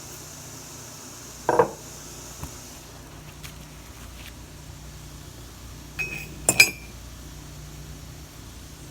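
Metal parts handled and set down on a hard surface: a dull clunk about a second and a half in, then two or three sharp, ringing metallic clinks around six seconds in.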